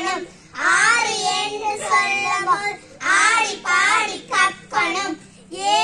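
Young girls singing a song, in phrases broken by short pauses.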